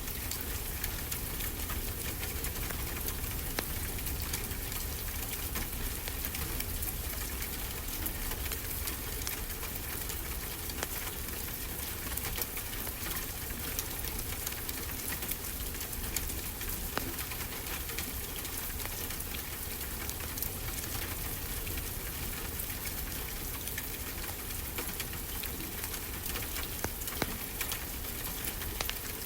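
Wood fire crackling with many small, irregular pops over a continuous hiss of ocean surf.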